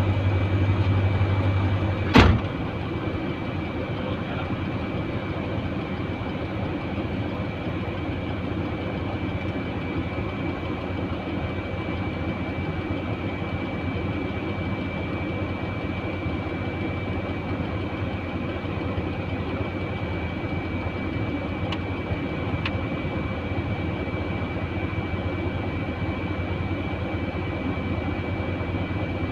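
Steady machine running noise with a constant high-pitched whine. A louder low hum cuts off with a sharp click about two seconds in.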